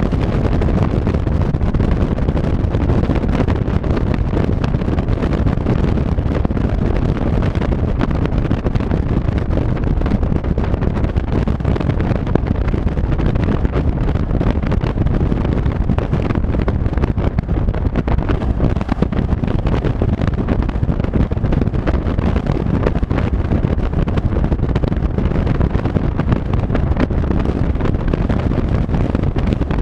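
Steady wind rush buffeting the microphone over the low rumble of a vehicle driving at a constant speed.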